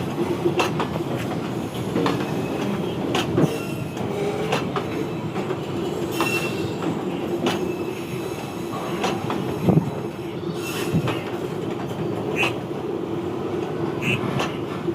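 Indian Railways freight train wagons rolling past: a steady rumble with irregular clacks of wheels over rail joints and a few brief high wheel squeals.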